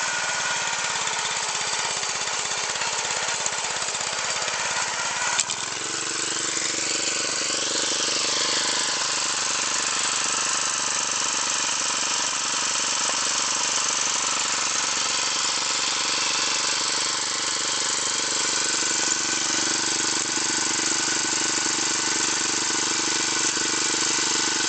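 Honda G150 single-cylinder four-stroke engine on a Mitsubishi My Boy MMR60 riding mower running steadily. Its note changes after a click about five seconds in.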